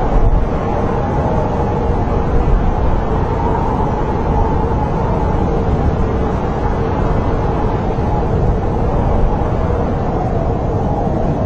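Snowstorm wind blowing steadily with a deep rumble and a thin, wavering howl that slowly rises and falls in pitch.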